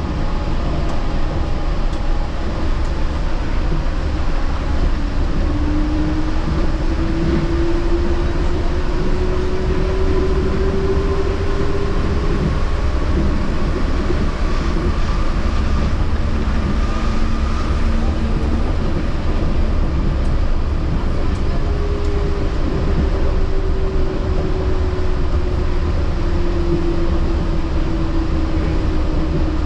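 Yurikamome rubber-tyred automated guideway train running, heard from inside the front car: a steady low rumble of tyres on the guideway, with the motor whine rising in pitch as it gathers speed and falling again near the end as it slows.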